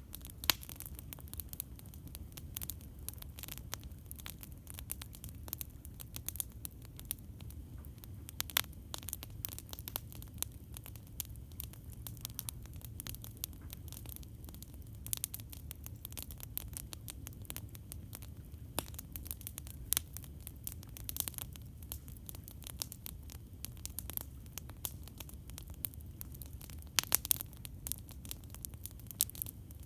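Campfire crackling: irregular sharp snaps and pops of burning wood, a few louder ones about half a second in and near the end, over a steady low rumble.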